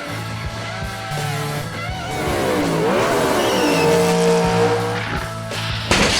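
Race-car sound effects laid over background music: an engine revving up and down and tyres squealing, then a sudden loud hit near the end.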